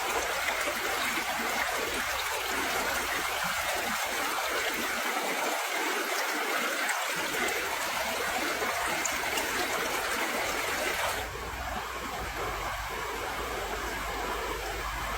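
Steady rushing, trickling water, like a stream, with the sound changing about eleven seconds in as the high hiss drops and a low rumble comes up.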